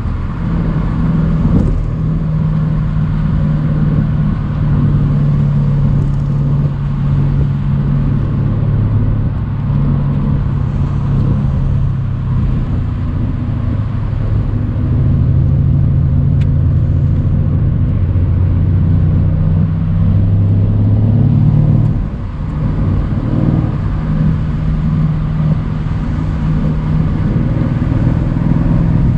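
Mercedes-AMG C63's 4.0-litre twin-turbo V8 pulling the car along a country road, its deep engine note steady and shifting in pitch with throttle. The level dips briefly about 22 seconds in, then the engine note picks up again.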